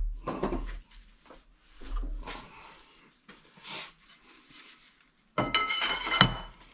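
Metal tools and parts clinking and knocking, then a loud metallic clatter with a bright ringing tone about five and a half seconds in.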